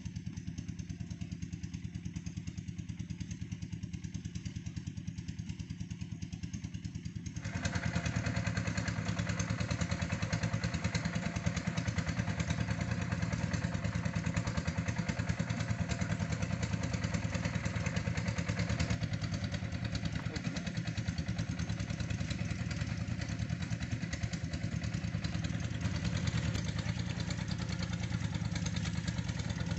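Engine-driven red-brick press machine running with a steady drone and a fast pulsing beat. About seven seconds in it becomes louder, with a harsher, noisier sound on top.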